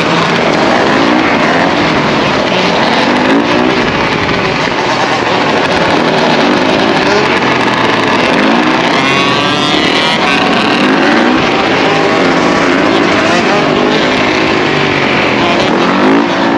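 Several dirt bike and ATV engines revving up and down at once, overlapping, with the pitches of the separate engines rising and falling against each other.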